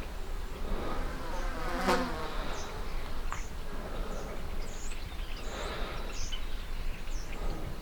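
An insect buzzing, with faint short high chirps repeating about twice a second.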